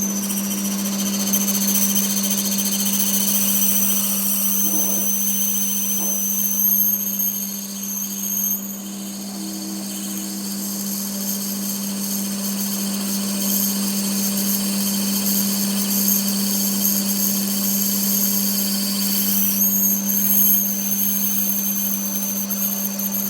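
Workshop power tool running steadily, with a constant hum and a high whine. The whine's pitch sags slowly through the middle, as if under load, then jumps back up about four fifths of the way in.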